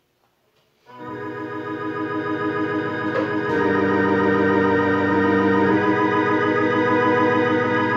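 Gambitt DX-series electronic organ with TYA sound boards playing sustained chords. The chords come in about a second in and grow louder, with a wavering vibrato on the held notes and a couple of chord changes.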